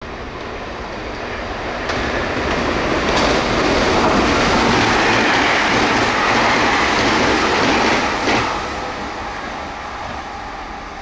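A Meitetsu electric express train passing at high speed. The rush of wheels on rail builds over a few seconds, stays loud with a few sharp clacks, then drops off sharply near the end and fades.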